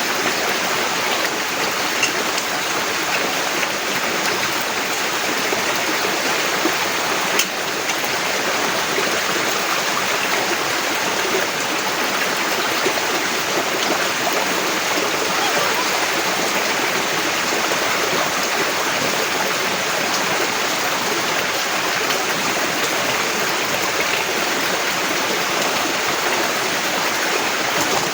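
Heavy rain falling steadily, an even rushing hiss, with one sharp tap about seven seconds in.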